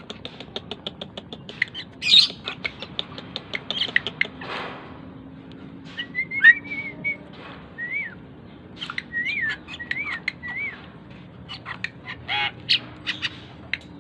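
A jalak keling (Aplonis starling) calling, a fast run of sharp clicking notes and chatter. It is followed about halfway through by several short whistled notes that rise and fall, then more clicks and a harsh call near the end.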